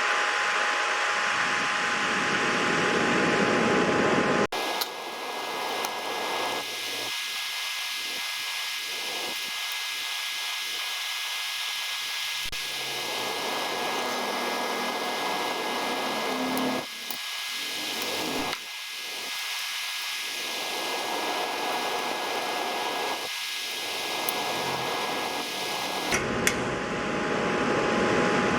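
Steady fan-like whirring hiss with a faint high whine. Its tone changes abruptly about four seconds in and again near the end.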